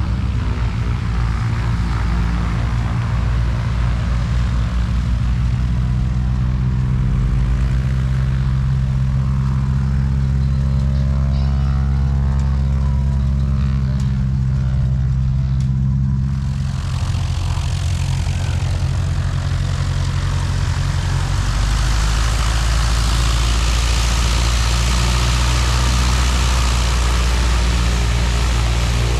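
Piston engine of a propeller airplane running steadily. About halfway through, the engine's tone gives way to a louder rushing noise.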